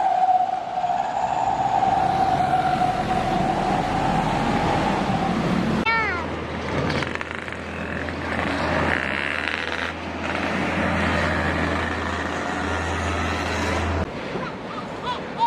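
Heavy trucks driving past: engine and road noise, with a long steady tone that sinks slowly in pitch over the first six seconds, and the sound changing abruptly about six and fourteen seconds in.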